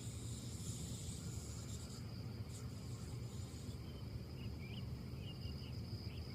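Outdoor ambience of wind in trees over a steady low rumble, with a steady high insect drone. A few short bird chirps come in the second half.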